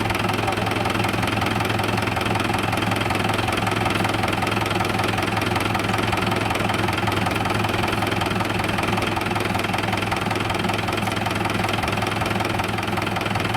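A tractor's diesel engine running steadily at an even speed, with no revving.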